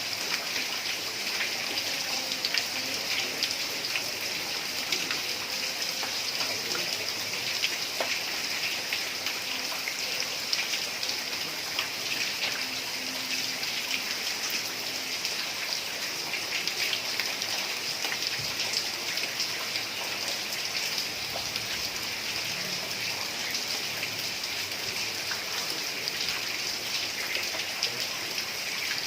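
Heavy rain falling steadily on a tiled roof: a dense, even hiss full of fine drop ticks.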